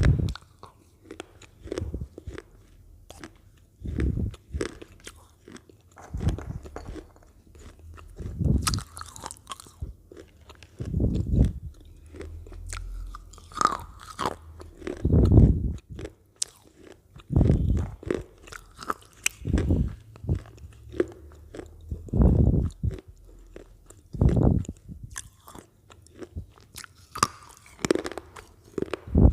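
Close-miked ASMR eating of Lay's potato chips: crisp crunching as chips are bitten and chewed, with a louder crunch about every two seconds and small crackles in between.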